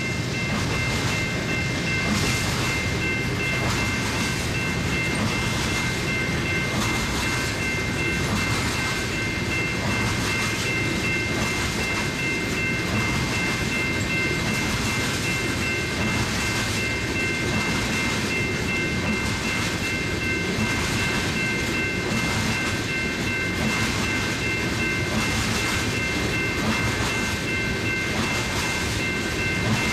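Unit oil train of tank cars rolling past: a steady rumble of wheels on rail with a regular clacking over the rail joints. A steady high-pitched ringing tone sits over it throughout.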